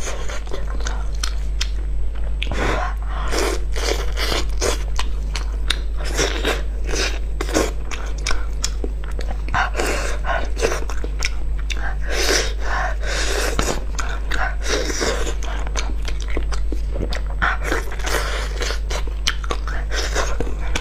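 Close-miked eating of salt-baked chicken: chewing and biting with many irregular short mouth noises, and the meat being torn apart by plastic-gloved hands, over a steady low hum.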